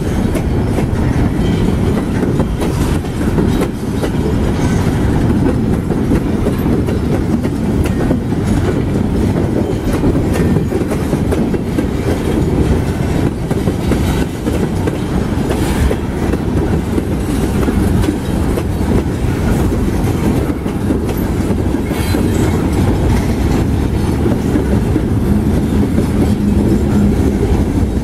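Freight train cars, tank cars and boxcars, rolling past close by: a steady heavy rumble of steel wheels on rail, broken by scattered clicks as the wheels cross rail joints.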